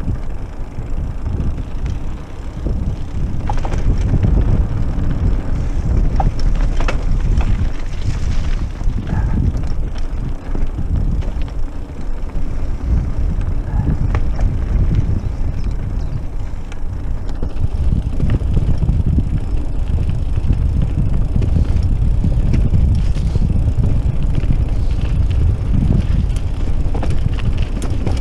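Mountain bike riding over a rough off-road trail: a steady rumble of the tyres on the ground, with scattered rattles and knocks from the bike.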